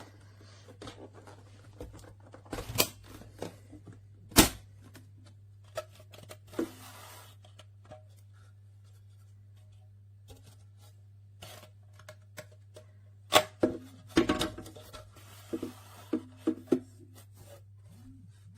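A steady low hum under irregular sharp clicks and knocks, with the loudest knocks about four seconds in and again around thirteen to fourteen seconds in.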